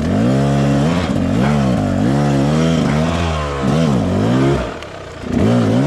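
Off-road trail motorcycle engine revved hard and repeatedly, its pitch rising and falling as the throttle is worked through difficult ground. The engine note dips briefly near the end, then revs up again.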